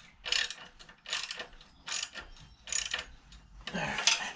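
Hand ratchet wrench clicking in short strokes, about one a second, as engine mount bolts are tightened down.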